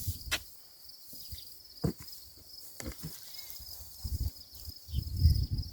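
Crickets trilling steadily, with a few sharp clicks, and low thumps and rumbling near the end as a large round hay bale is shoved by hand.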